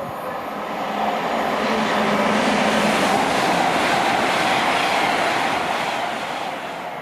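Train passing through a station at speed, its noise swelling to a peak about three seconds in and then fading away.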